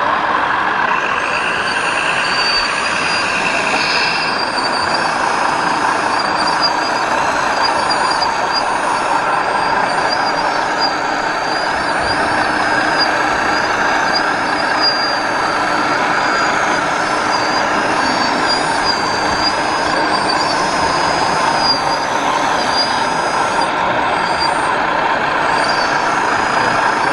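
1/14 scale radio-controlled trucks and machines running, a steady din with thin high whines that waver up and down in pitch as they are driven.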